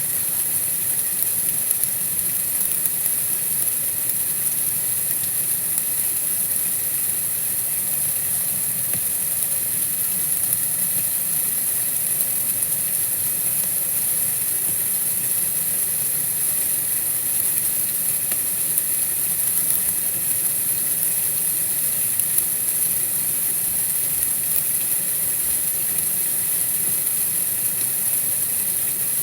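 Steady white noise: an even, high-pitched hiss that does not change.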